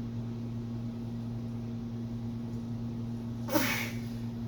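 Steady low electrical hum in the workshop, with one sharp strained grunt from the mechanic about three and a half seconds in as he heaves on the very tight crankshaft centre bolt.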